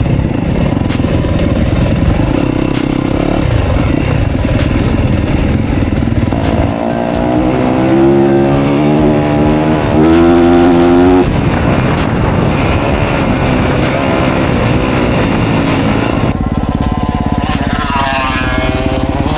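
Motocross dirt bike engine running under load while riding, revving up with its pitch climbing through the gears in two runs: about seven to eleven seconds in, and again near the end.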